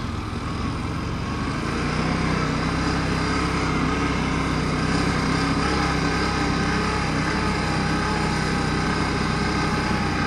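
ATV engine running steadily while riding along a trail, picking up slightly about two seconds in and then holding an even pace.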